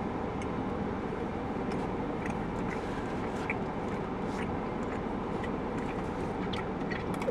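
Steady low background rumble with faint, scattered small clicks.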